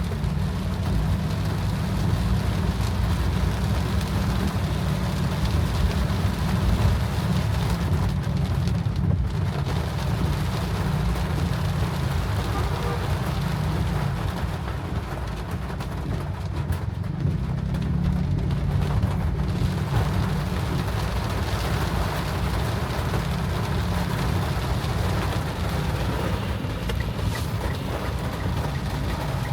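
Rain falling on a moving car, over the car's steady low rumble of engine and road noise.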